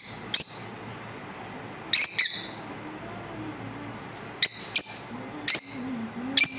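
Lovebirds giving short, sharp, high-pitched chirps, about seven in all, singly and in quick pairs, with pauses of a second or more between.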